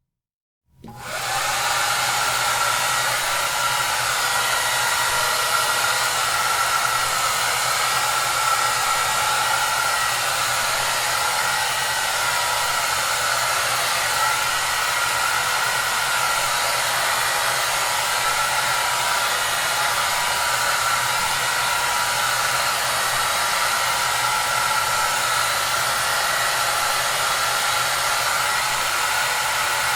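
Hair dryer blowing: after a brief silence it comes on about a second in, rises to full within half a second, then runs steadily as an even, constant rush of air with a faint motor whine.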